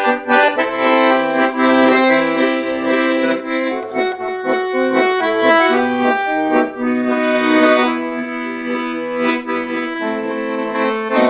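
Accordion playing the instrumental introduction to a slow lyrical song: held chords over a stepping bass line.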